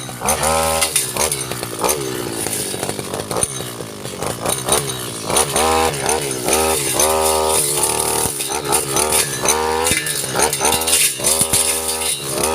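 Stihl two-stroke engine on a land-clearing machine, revved up and down repeatedly as it cuts through undergrowth, with short knocks from the cutting.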